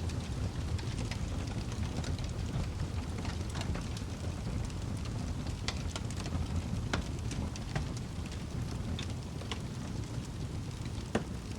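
Wood fire crackling in a fireplace: scattered sharp pops over a low, steady rumble, with one louder pop near the end.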